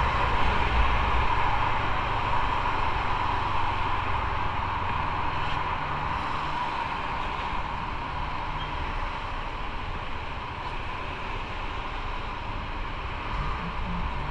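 Motorcycle on the move: steady wind rush over the microphone with the engine's low drone underneath, easing off gradually.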